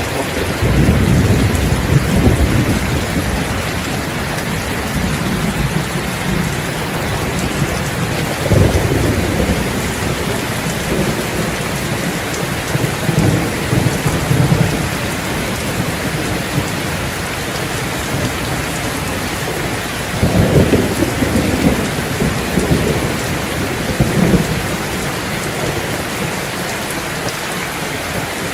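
Steady heavy rain with thunder rumbling low several times, the loudest rolls near the start and about two-thirds of the way through.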